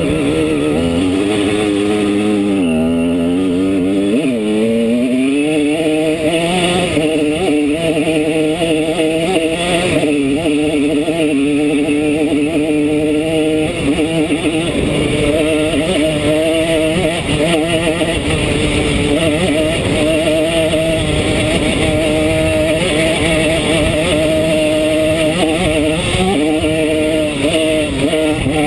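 Two-stroke single-cylinder engine of a tuned Simson S51 enduro moped running under way. Its revs drop and climb several times in the first few seconds, then hold fairly steady.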